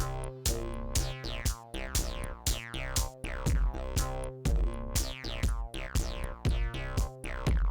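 Electronic music from drum machines, samplers and synthesizers: a steady beat of about two hits a second, each hit carrying a quick falling-pitch zap, over sustained low bass notes.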